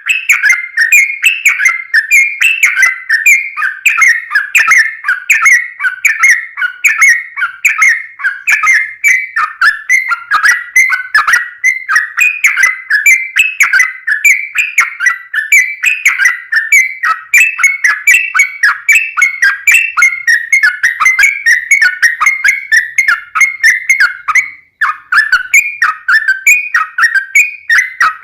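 Yellow-vented bulbul (trucukan) singing a long, unbroken run of rapid, bubbly whistled notes, several a second, the pitch wavering up and down.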